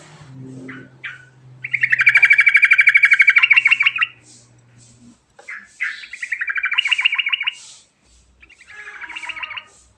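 Yellow-vented bulbul (trucukan) singing in three rapid, rolling trilled phrases. The first is the longest and loudest, and the last is short, near the end.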